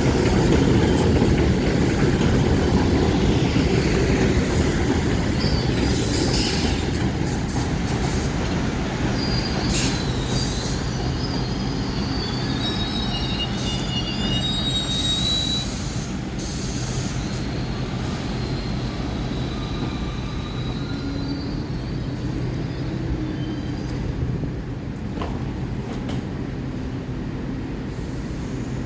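New York City subway train on the 1 line running through the station: a heavy rumble that slowly fades, with high wheel squeals in the middle and a few metallic clanks.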